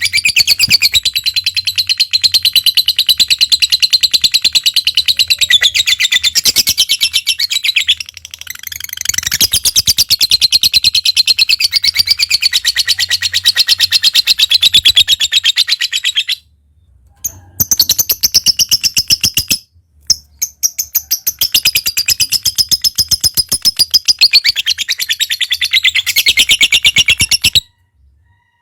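Lovebird in long 'ngekek' runs: a rapid, high-pitched chattering trill of fast repeated notes, broken by brief pauses a few times and stopping just before the end.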